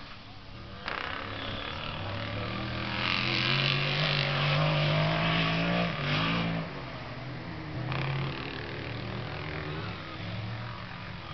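Off-road race vehicle engines at high revs, with a loud pass a few seconds in that rises slightly in pitch and then drops away, and a smaller swell later.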